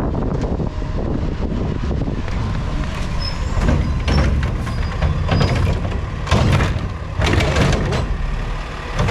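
Peterbilt 520 recycling truck with a Heil body running with a loud low rumble, joined in the second half by a string of short hissing or clattering bursts about a second apart.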